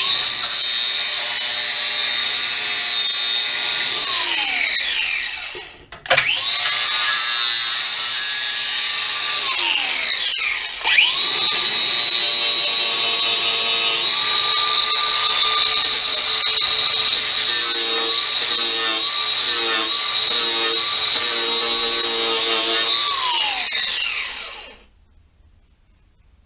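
A high-speed power tool with a flap wheel is running and sanding down the cut steel edge of a car's inner wheel arch. It whines steadily, winds down with a falling pitch about four seconds in, starts again about six seconds in, and is switched on and off in short bursts later on before it winds down near the end.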